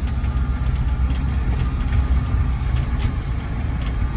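Ford 7.3 IDI turbo diesel V8 running steadily at low speed as the truck eases out of a driveway.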